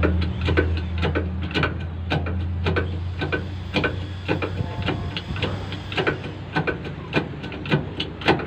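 Rhythmic mechanical clicking, about three clicks a second, over a low steady hum.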